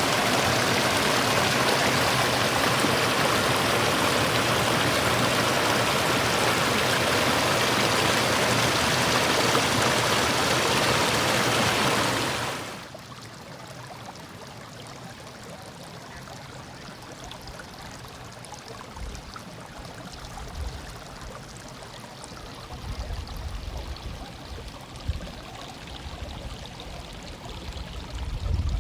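Stream water running with a steady, full rush, then a sudden change about halfway through to a much quieter, thinner flow. Occasional low rumbles come in over the quieter water near the end.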